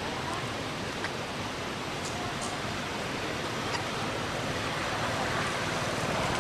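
Steady outdoor background rushing noise, growing slightly louder toward the end, with a few faint ticks.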